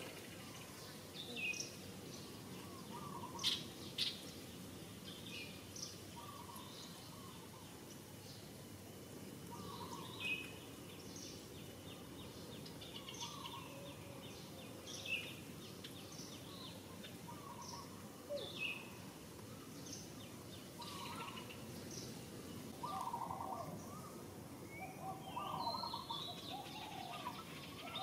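Birds calling over a steady outdoor background noise: short, high, falling notes repeat every second or two, with a lower call between them. The calling grows busier and louder near the end. Two sharp clicks come about three and a half seconds in.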